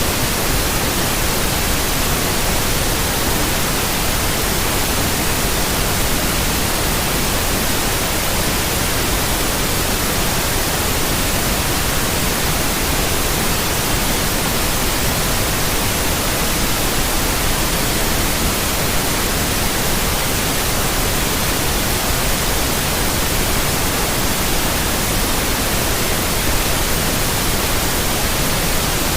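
Steady white noise: an even, unbroken hiss across the whole range of pitch, holding the same level throughout.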